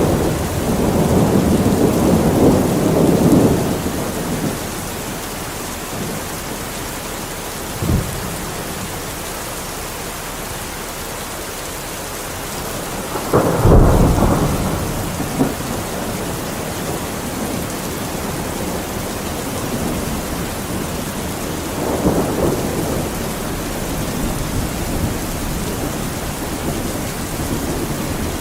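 Steady rain with rolling thunder: low rumbles at the start, a short sharp crack about eight seconds in, the loudest clap about halfway through, and further rumbles near the end.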